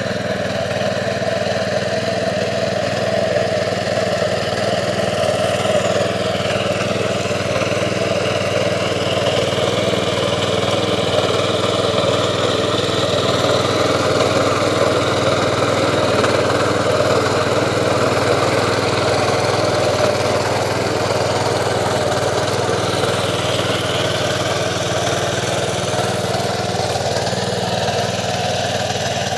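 Mini tractor's engine running steadily while ploughing a field, with a slight change in pitch a few seconds in and again near the end.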